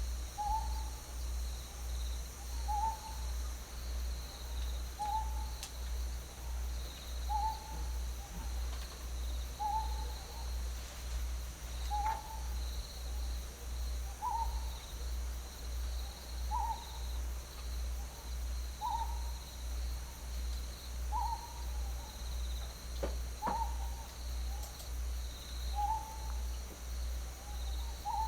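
An owl hooting: a single short note repeated steadily about every two seconds, over faint insect chirring and a low pulsing hum.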